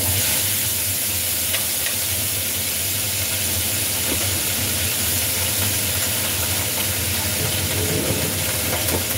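Vegetables hitting hot oil in a wok on a gas burner, breaking into a loud, steady sizzle the moment they go in.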